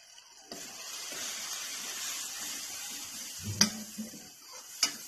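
Onion-tomato masala frying in oil in a metal karahi, a hissing sizzle that starts suddenly about half a second in, with a stirring spoon striking the pan twice near the end.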